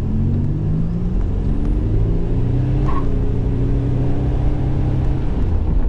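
1987 Buick Grand National's turbocharged 3.8-litre V6 accelerating under throttle, its pitch rising over the first half and then holding steady.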